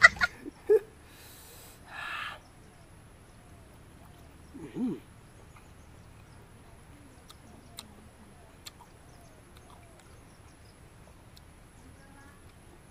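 Soft eating sounds from chewing pork intestine: a few faint mouth clicks and a short hummed 'mm' about five seconds in, with faint bird chirps.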